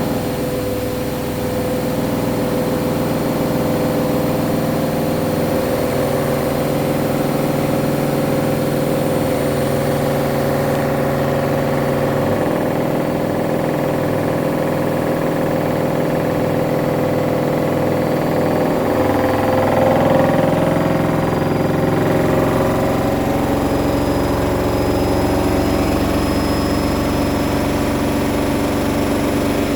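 Hoover washing machine on its final 1400 rpm spin: the drum motor and spinning drum make a loud, steady whine. The tone shifts and swells slightly about two-thirds of the way through.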